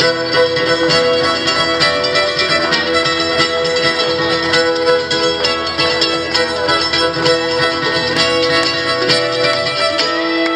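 Acoustic string band playing an instrumental passage: fiddle holding notes over picked and strummed acoustic guitar, at a steady folk tempo.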